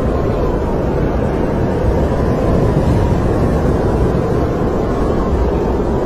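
Snowstorm wind blowing steadily and loudly, with a faint high whistle that wavers slightly in pitch.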